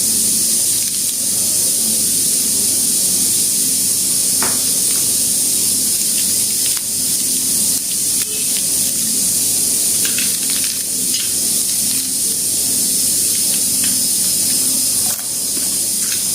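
Egg puff pastries frying in oil in a pan: a steady sizzling hiss, with a few faint ticks.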